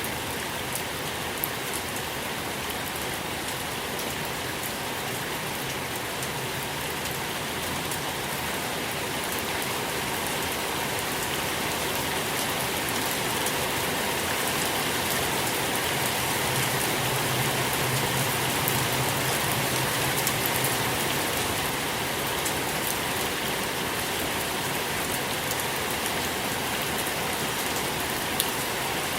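Steady rain falling, a continuous hiss with many small drop ticks and the odd louder tap, swelling gently in the middle then easing.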